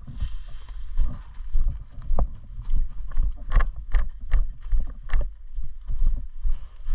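Footsteps at a walking pace with gear rattling, over a low wind rumble on the microphone, and a few sharp clicks in the middle.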